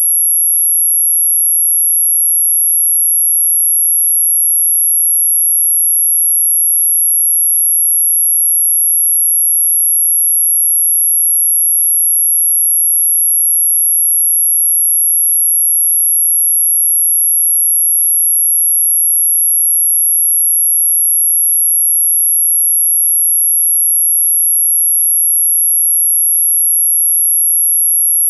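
A steady, very high-pitched pure electronic tone that does not change in pitch or loudness. It is the synthetic anti-mosquito repellent tone, meant to keep mosquitoes away.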